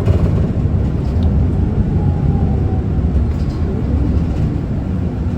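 Inside the cabin of an Isuzu Erga city bus: a steady low rumble of its diesel engine and drivetrain with road noise, and a faint whine about two seconds in.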